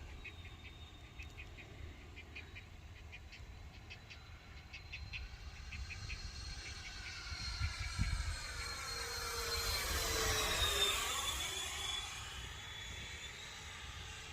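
Freewing MiG-29 RC jet's twin electric ducted fans making a pass. Their whine grows louder and drops sharply in pitch as the jet goes by about ten seconds in, then fades. Faint ticking in the first few seconds and low wind rumble on the microphone run underneath.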